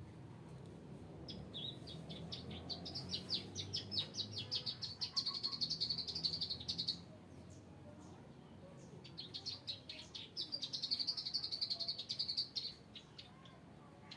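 Ciblek sawah, a prinia, singing two long bouts of rapid, high trilled notes. The first starts about a second in and runs about six seconds; the second starts about nine seconds in.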